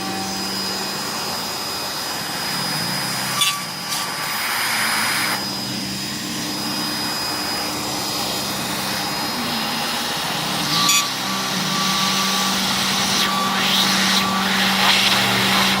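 Inverter-driven Chinese router spindle on a C-Beam CNC machine running with a steady whine. Short gliding tones and several bursts of louder noise come as the machine works.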